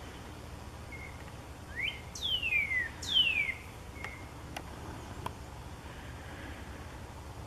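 Wild birds calling: a short rising note, then two loud whistles sliding steeply down in pitch about a second apart, with a few brief chirps before and after.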